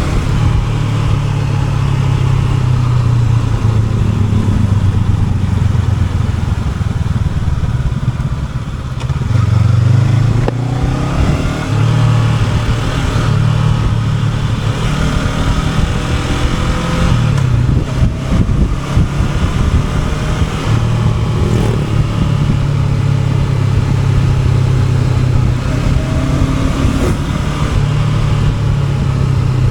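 Honda NX500's parallel-twin engine pulling the bike along, its note rising and falling with the throttle and gear changes. There is a brief dip about nine seconds in, then it picks up again.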